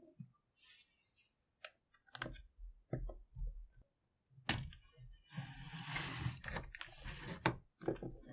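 Plastic LEGO parts being handled and pressed together: scattered sharp clicks and knocks, with a rustling, scraping stretch in the second half.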